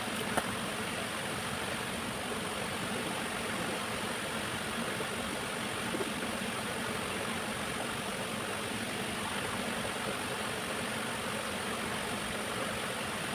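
Steady rushing of a waterfall, an even noise with no rhythm or pitch.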